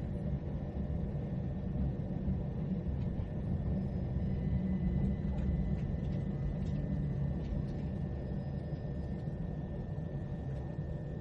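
Steady low rumble of a train carriage in motion heard from inside, with a faint steady whine and occasional light rattles and clicks.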